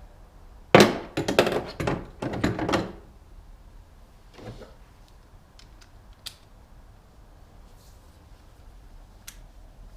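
Hand tools being picked up and handled: a burst of clattering metal knocks lasting about two seconds, then a few faint clicks.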